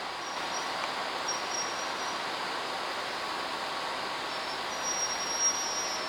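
Steady outdoor background hiss with a faint, thin, high-pitched insect buzz that comes and goes.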